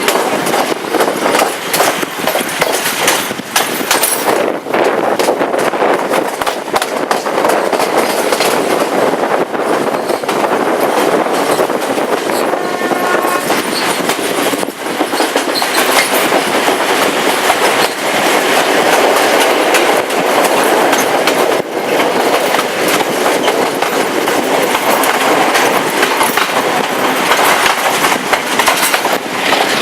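Passenger coach of an express train running along the line, heard from on board: a steady rush of wheel and rail noise with irregular clicks and knocks from the wheels over the track.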